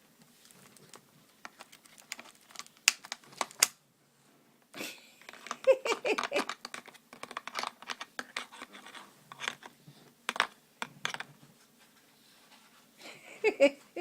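Plastic water bottle clicking and crackling in irregular bursts as an Amazon parrot bites and knocks it about with his beak.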